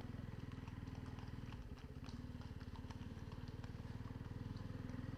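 Motorcycle engine running at low revs, a steady, fast, even putter.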